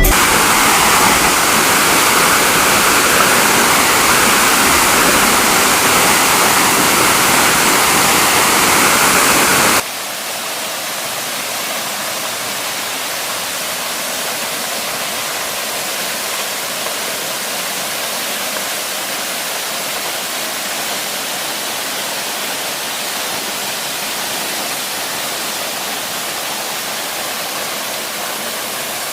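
Waterfall, steady rushing water. About ten seconds in it turns abruptly quieter and thinner, losing its low rumble.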